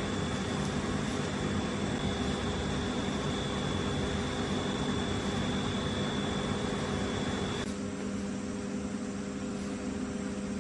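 Steady machine hum and hiss with a high, thin whine; the whine and part of the hiss cut off about three-quarters of the way through, leaving the low hum.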